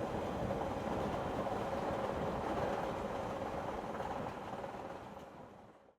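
Passenger train running: a steady rumble with a faint hum, fading away near the end.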